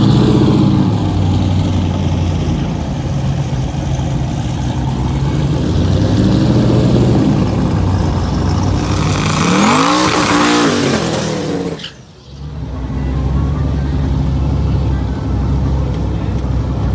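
Truck engines at a drag strip, revving up and down several times, loudest in a long rising-and-falling rev with a thin high whistle a few seconds before a sudden drop near the middle; afterwards a steadier engine sound.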